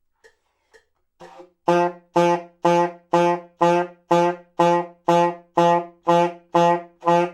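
Saxophone playing the same low note over and over, one tongued attack per beat, about twelve short notes at two a second, each starting hard and fading before the next. Faint metronome ticks lead in during the first second.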